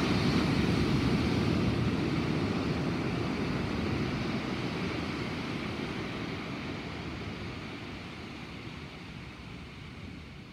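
A long rumble of thunder, loudest at the start and slowly fading away over about ten seconds.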